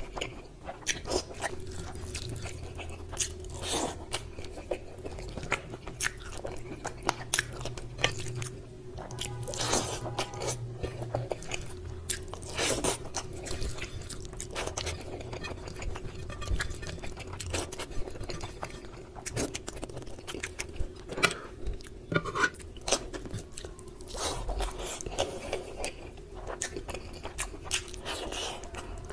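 Close-miked eating by hand: wet chewing and crunching, with many irregular sharp clicks and smacks from the mouth. A faint steady hum runs underneath.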